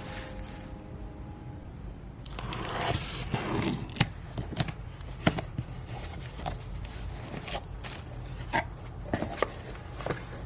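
Small handling noises: a stretch of scraping about two seconds in, then scattered light clicks and taps.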